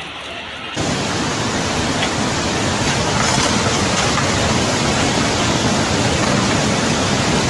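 Floodwater rushing: a loud, steady rushing noise that starts abruptly about a second in.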